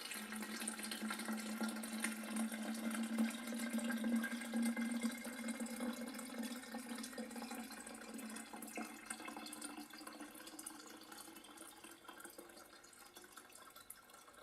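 Water poured from a kettle into a plastic humidifier tank: a steady running pour that slowly grows quieter toward the end.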